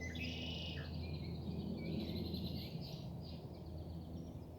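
Outdoor ambience of birds chirping and insects trilling, a steady mix of fast high chirps over a low hum.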